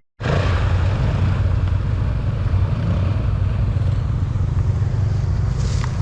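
Off-road vehicle engine running steadily under way, with wind and ground noise over it. The sound cuts in after a split-second of silence at the very start.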